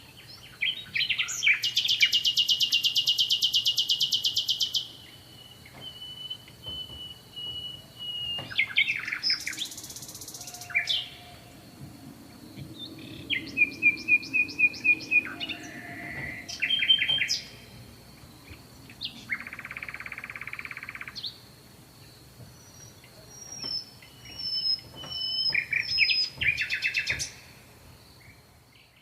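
Songbirds singing and calling. A loud rapid trill runs for about four seconds near the start, followed by bursts of quick repeated chirps and short buzzy phrases, over a faint steady high whine.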